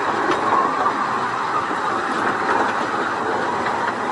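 A 15-inch gauge train's carriages running along the track: a steady running noise of wheels on rail, with a few faint clicks from the wheels.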